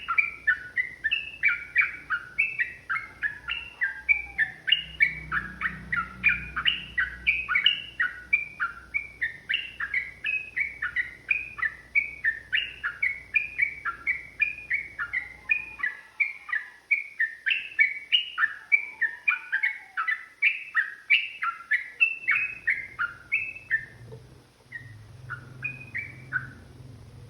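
Yellow-vented bulbul (trucukan) singing a long, fast chattering run of repeated sweeping notes, about three a second, which thins to a few scattered notes near the end.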